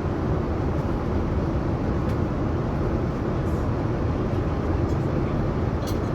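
Steady low cabin noise inside a Boeing 787-9 airliner in flight: an even rush of airflow and engines, with a few faint ticks.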